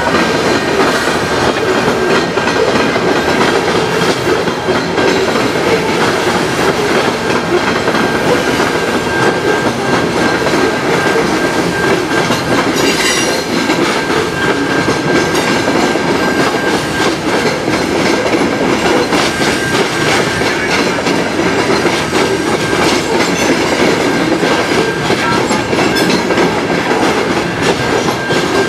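Covered hopper cars of a freight train rolling steadily past, steel wheels running on the rails. A thin, steady high tone runs underneath the whole time.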